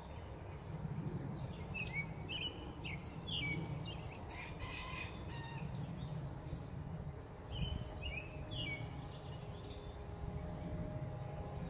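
Bird calls: short chirps in two clusters, a few seconds apart, over a steady low rumble.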